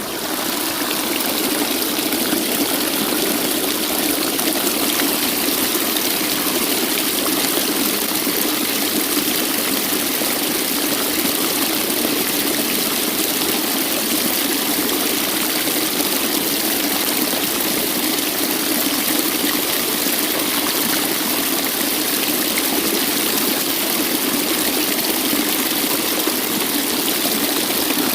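Waterfall: a steady, even rush of falling and running water with no let-up.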